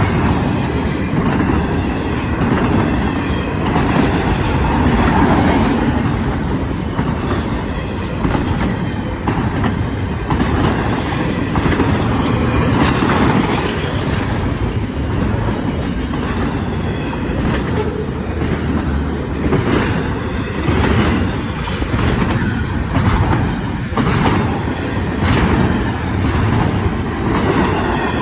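Double-stack intermodal freight train rolling past at speed: a continuous loud rumble of wheels on rail, with irregular clicks as the wheels cross rail joints.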